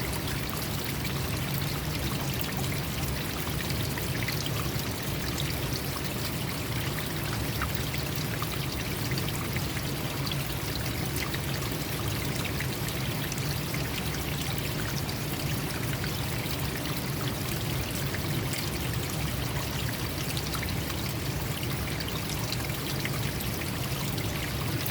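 Forest stream flowing and splashing steadily, a continuous rushing of water with small splashes and trickles.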